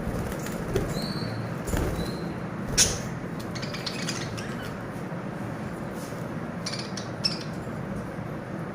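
Pet lovebirds giving a few short, high chirps and squawks over a steady background hiss, with one sharp click about three seconds in.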